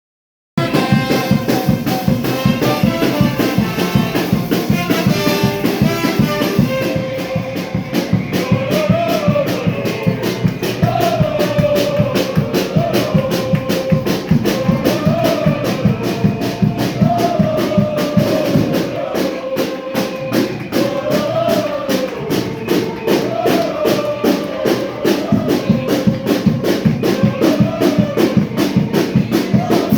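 A charanga brass band with drums plays a lively tune, starting about half a second in: a steady, fast drumbeat under a repeating brass melody.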